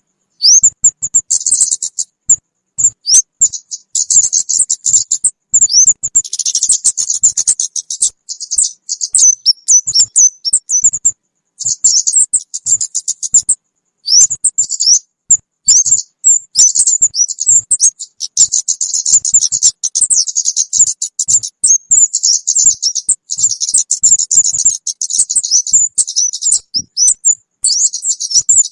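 Recorded calls of a kemade, a small songbird, played as a bird-trapping lure: high, rapid chirps, quick rising notes and buzzy trills in runs of several seconds, broken by short pauses.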